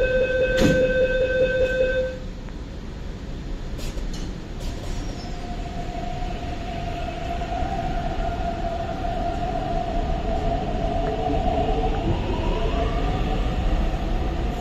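MTR East Rail Line R-Train: a steady door-closing warning tone sounds for about the first two seconds, then the train pulls out of the platform with its traction motors whining over the rumble of the cars, the whine climbing in pitch near the end as it gathers speed.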